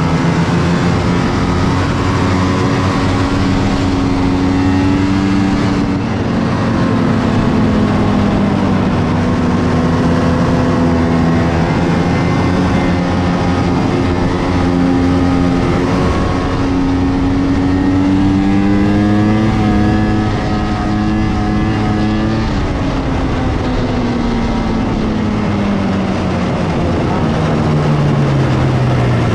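1997 Polaris XCR 600 snowmobile's three-cylinder two-stroke engine running through its stock triple pipes while being ridden. The engine speed rises and falls with the throttle, then winds down steadily over the last several seconds.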